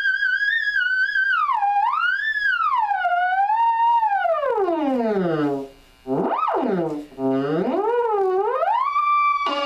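Moog Theremini played through a small Fender Frontman G10 guitar amp: a single wavering tone with vibrato, held high, then gliding slowly down to a low pitch. After a brief break about six seconds in, it swoops quickly up and down and climbs back high; near the end another sound comes in.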